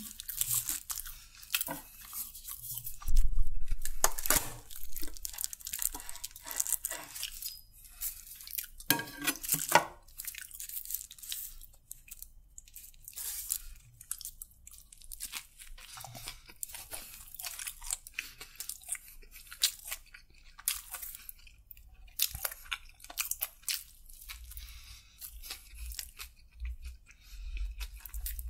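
Close-miked chewing and crunching of a chicken submarine sandwich, with many short mouth clicks. A louder dull thump comes about three seconds in.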